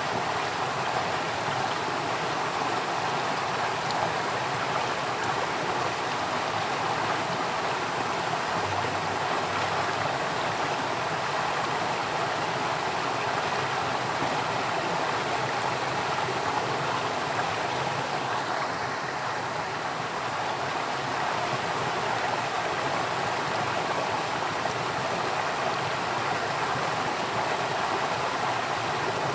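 Flowing water, like a stream, making a steady rushing sound that stays even throughout.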